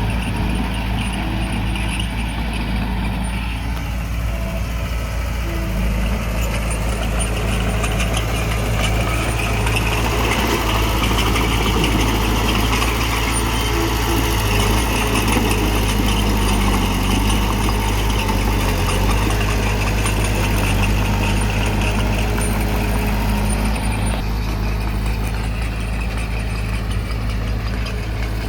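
Heavy earthmoving machine's diesel engine running steadily with a constant low drone.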